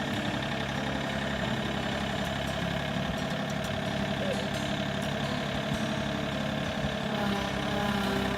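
Tractor engine running steadily under a loader operator's hands; about seven seconds in its note shifts and it grows slightly louder.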